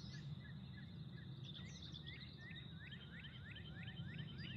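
Wild birds singing: a few scattered chirps, then from about two seconds in a fast run of repeated down-slurred notes, about four a second, over a steady low outdoor rumble.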